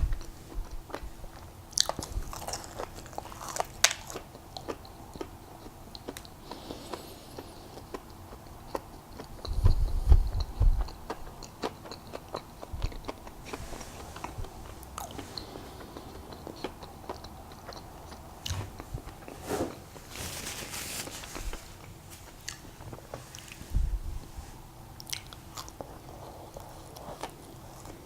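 Close-miked mouth sounds of a person eating Krispy Kreme donuts: wet chewing with small clicks and smacks, with a few heavier bites or thumps about ten seconds in and near the end.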